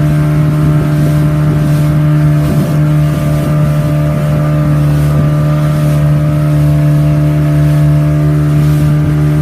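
Boat engine running steadily at a constant speed, a loud, even drone that holds one pitch throughout.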